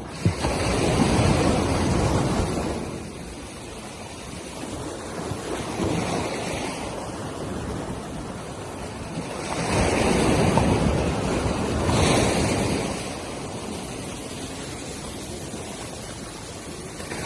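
Sea surf washing onto a beach, with wind buffeting the microphone. The rush swells at the start and again about ten seconds in, easing off between.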